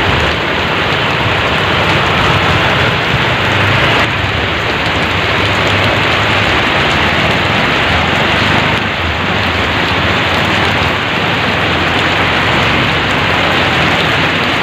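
Heavy rain pouring down, a loud, steady, even hiss of a downpour.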